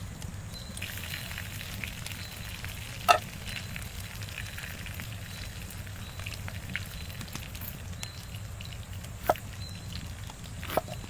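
Steak sizzling over a campfire: a steady hiss with scattered small crackles, a sharp crack about three seconds in and two more near the end.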